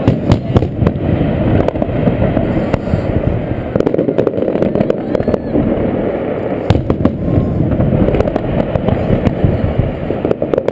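Fireworks going off in quick succession, a dense run of bangs and crackles close together.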